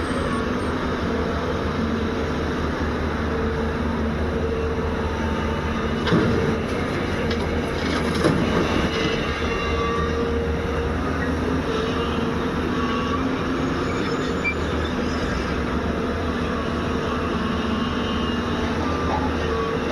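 JCB 205 excavator's diesel engine running steadily under working load, its pitch shifting as the hydraulics work, with two clanks about two seconds apart midway.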